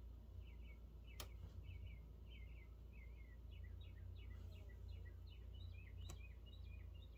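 Faint small-bird chirping: quick, short chirps that slide downward, coming in a rapid series that thickens in the second half, over a low steady hum. Two light clicks, one about a second in and one about six seconds in.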